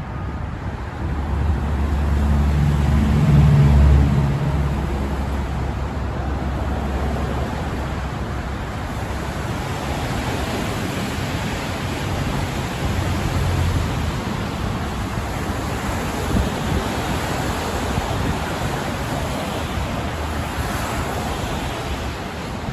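Steady rush of motor traffic and wind on the Brooklyn Bridge, with one vehicle's low engine drone swelling and passing about one to five seconds in.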